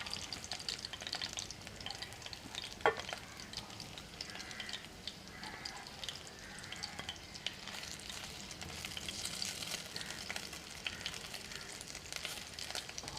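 Batter-coated chicken pieces deep-frying in hot vegetable oil: a steady sizzle with fast crackling, and a single sharp click about three seconds in.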